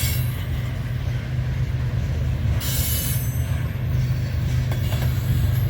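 Freight train cars rolling past with a steady low rumble of wheels on rail. Brief high wheel squeals come right at the start and again about three seconds in.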